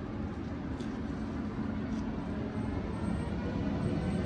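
DSB Twindexx double-deck passenger train, hauled by a Siemens Vectron electric locomotive, departing at low speed: a steady low rumble of wheels on rails with a hum, slowly growing louder.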